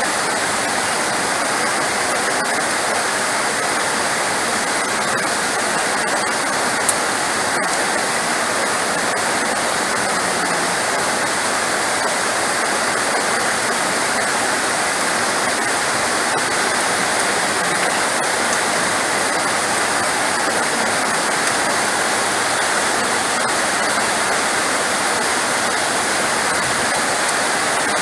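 Heavy rain falling as a steady, dense hiss, with one brief tick about seven seconds in.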